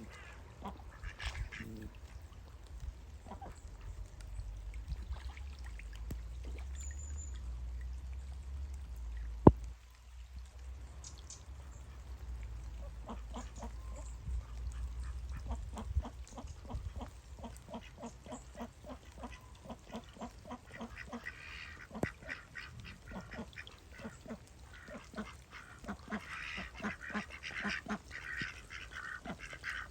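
Ducks quacking, in quick runs of calls that grow busier through the second half and are loudest near the end. One sharp knock comes about nine seconds in, over a low rumble in the first half.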